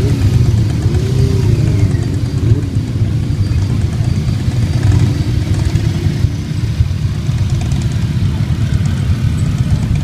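Motorcycle engines running, a steady low rumble with some rising and falling engine notes in the first few seconds.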